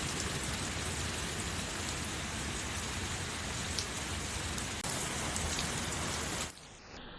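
Heavy rain pouring down in a thunderstorm: a steady, dense hiss of rain on surfaces. About six and a half seconds in, it cuts abruptly to a quieter, duller sound.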